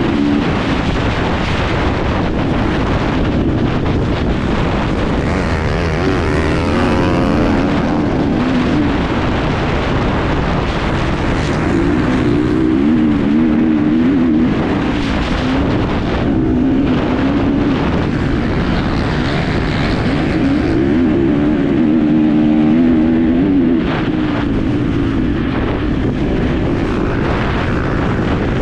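Enduro motorcycle engine heard onboard, its revs rising and falling again and again as the rider works the throttle over the course, with scattered knocks and rushing noise.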